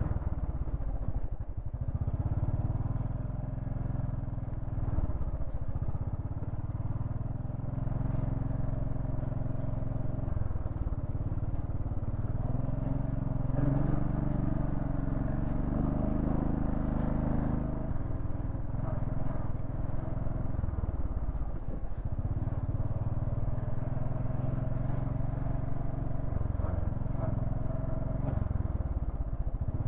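Royal Enfield Thunderbird 500's single-cylinder engine running at low revs as the motorcycle is ridden slowly over a rough, slippery road. The revs pick up for a few seconds in the middle, then settle back.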